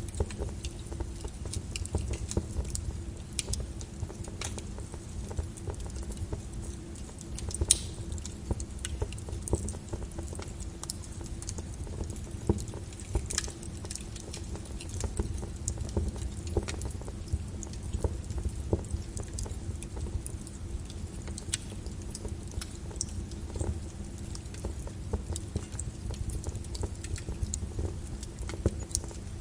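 Flowing lava crackling and popping: a dense run of small cracks and sharper snaps over a steady low rumble, with one louder snap about eight seconds in.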